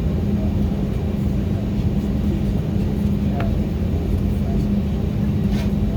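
Steady low drone inside the cabin of an Airbus A319 on the ground, with an even hum that does not rise or fall. There is a faint click about three and a half seconds in.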